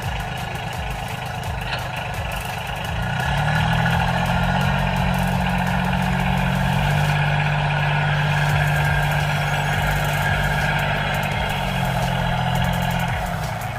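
Small electric motor and gearbox of a model mini tractor running with a steady whir. A low steady hum joins it about three seconds in and drops away near the end.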